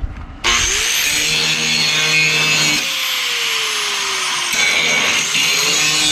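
Angle grinder switched on about half a second in, its motor whine rising as it spins up, then grinding steel with a loud, steady rasp. Past the middle the whine sags as the disc bears on the metal, then it spins back up.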